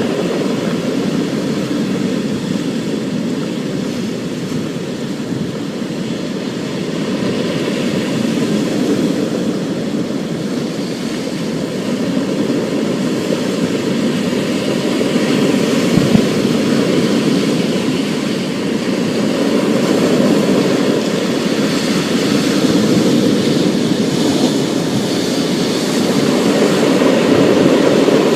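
Thunderstorm: steady heavy rain under a low rumble of thunder that swells and eases slowly, with one brief sharp click about halfway through.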